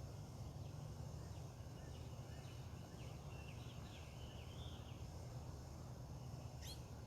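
Faint outdoor ambience: a bird calling in a string of short chirping notes, with one sharp high chirp near the end, over a steady low rumble.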